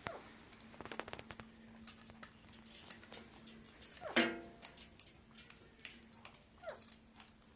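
Pet parrot making scattered soft clicks and short falling chirps, with one louder squawk about four seconds in, over a faint steady hum.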